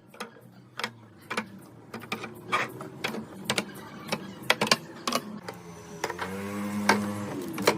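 Irregular clicks, taps and clatter of containers and jars being handled and set down, with a short wavering tone near the end.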